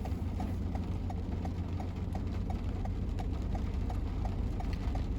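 Car turn-signal indicator ticking evenly, about three ticks a second, over a steady low road rumble inside the car.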